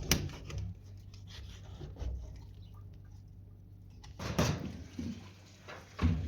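A handful of short, sharp knocks and scrapes, with the loudest cluster about four seconds in and another near the end.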